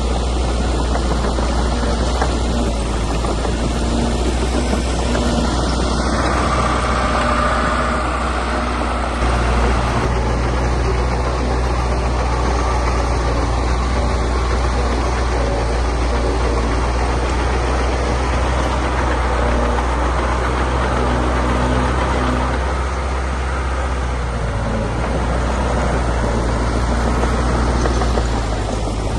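Heavy diesel engine of earth-moving machinery running steadily, its note shifting slightly about six and nine seconds in.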